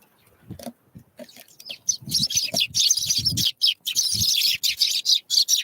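Small wild songbirds at a winter feeder chirping, a rapid overlapping chatter of short high calls that starts about two seconds in, with a few low knocks underneath.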